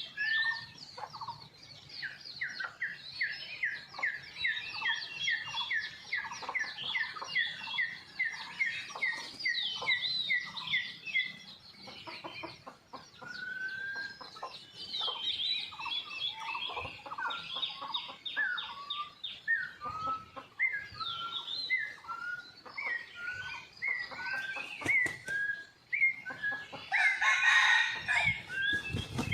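Red junglefowl calling in forest, with a louder crow near the end. Small birds chirp through the whole stretch, first in a fast repeated series of notes, then in short slurred whistles.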